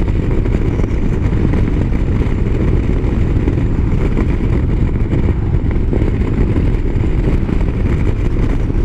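Motorcycle riding at highway speed: a steady engine and wind-rush noise, heaviest in the low end, with no change in pace.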